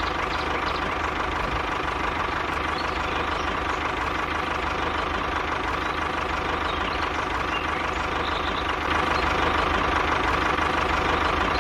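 Small engine running steadily with a fast, even chugging, a little louder from about nine seconds in.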